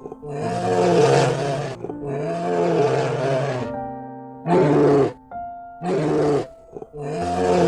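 Bear growling and roaring, five calls in a row, some long and some short, over background children's music.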